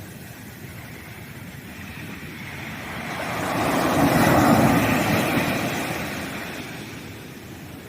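Ocean surf on a sandy beach: one wave's rush of water swells up, peaks about halfway through and fades away again.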